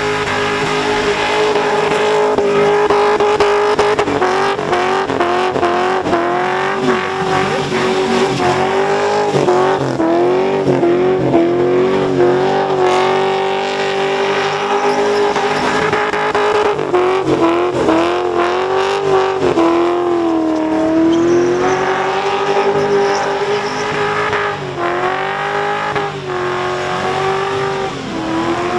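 Supercharged, methanol-fuelled Holden Commodore ute engine held at high revs through a burnout, its note mostly steady but dipping briefly a few times as the throttle is worked, over the hiss and squeal of the spinning rear tyres.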